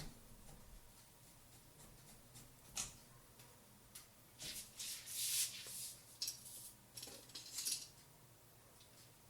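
Small clicks and short scraping, rustling noises of hardware being handled, the busiest stretch about halfway in.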